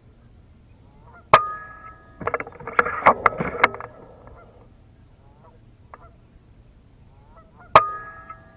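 Two sharp shots from an FX Impact PCP air rifle about six seconds apart, each followed by a short ringing tone. Between them a run of geese honking.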